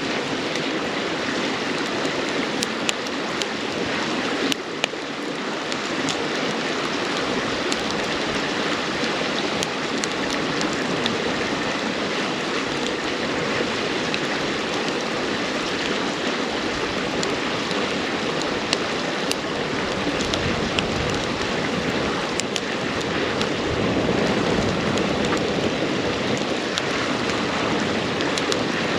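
River water flowing steadily over rocks, with the sharp pops and crackles of burning firewood in a campfire scattered over it.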